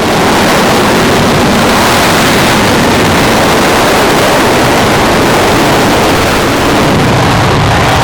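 Military aircraft engines at full takeoff power, a loud, steady rushing noise with no clear tones.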